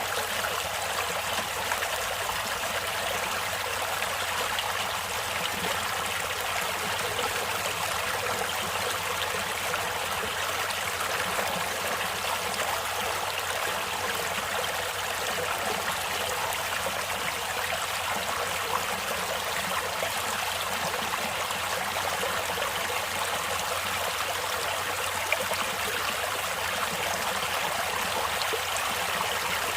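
Stream water running over rocks, a steady rushing and trickling.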